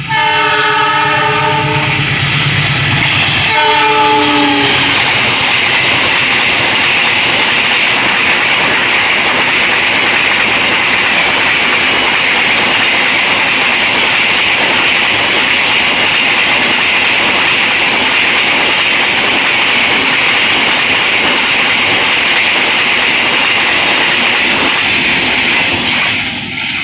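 Diesel locomotive sounding its multi-tone horn, a long blast of about three and a half seconds and then a shorter second one, as a train passes through the station. The wheels' clatter and rushing noise of the passing carriages then carry on for about twenty seconds and fall away near the end.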